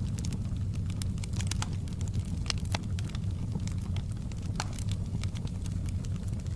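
Campfire burning: irregular sharp crackles and pops of wood over a steady low rumble.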